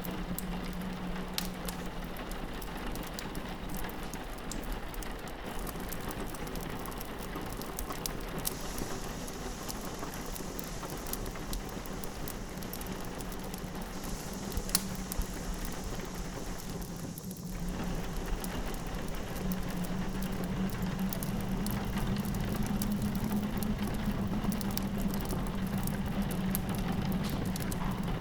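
Steady rain pattering on a window over a crackling wood fire in a fireplace, with scattered sharp pops and crackles. The mix dips briefly about two-thirds of the way through.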